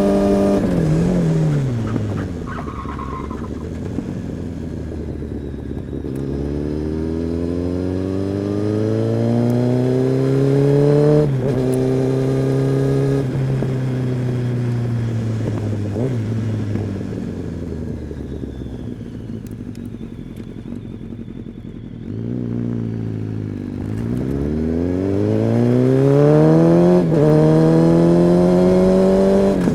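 Kawasaki ZX-10R inline-four sport bike engine and exhaust under way. The revs fall about a second in, then climb through the gears with rising pitch and a shift drop about eleven seconds in, sag slowly as it rolls off, and rise steeply again in a hard acceleration near the end.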